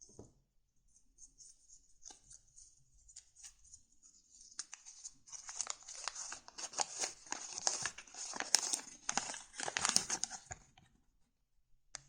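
Paper crinkling and rustling: a few light rustles at first, then a dense crackling handling of paper from about four seconds in that stops shortly before the end.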